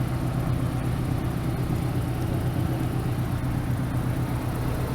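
Mazda RX-7's twin-turbo 13B rotary engine idling steadily, with an even low hum.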